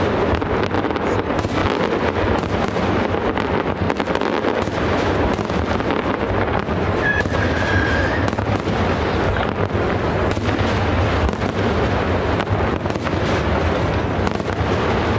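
Fireworks display: aerial shells bursting and crackling in a dense, continuous barrage, the booms and pops running into one another without a break.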